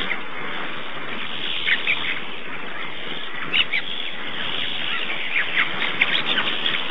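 Small birds chirping: short, high calls come in scattered clusters, thickest in the second half, over a steady background hiss.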